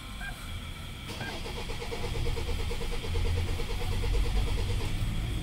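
Starter cranking the Hyundai Tucson's diesel engine in a steady rhythm of about five beats a second without it catching. It will not fire because the fuel system has no fuel yet after the fuel lines were disconnected. The cranking begins about a second in and stops near the end.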